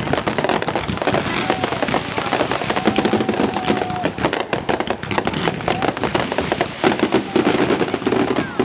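Fireworks display: a continuous, rapid crackle of shells bursting and popping. A steady high tone is held for about two seconds near the middle.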